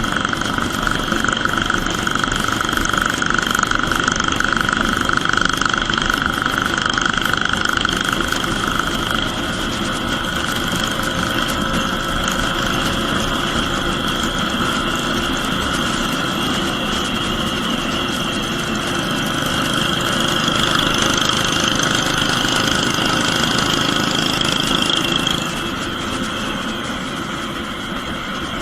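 Royal Enfield Bullet 350's single-cylinder engine running steadily at cruising speed through a short bottle aftermarket silencer, heard while riding on the highway. It gets a little quieter about 25 seconds in.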